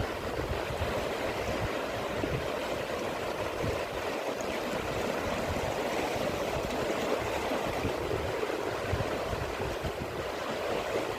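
Steady rush of flowing river water, an unbroken noise that does not pause or change.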